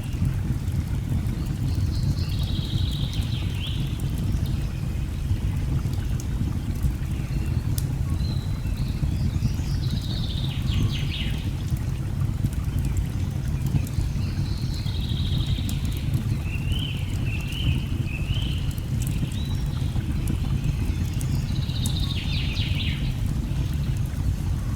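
Steady low rush of a waterfall, with birds singing in short chirping phrases about five times, and faint scattered crackles of a wood fire.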